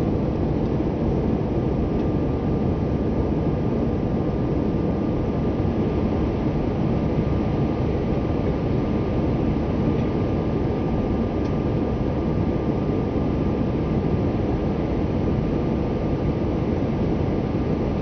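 Steady drone inside the cabin of an Airbus A319-111 climbing after take-off: its CFM56 turbofan engines and the rushing airflow, unchanging throughout, with a faint steady whine above the rumble.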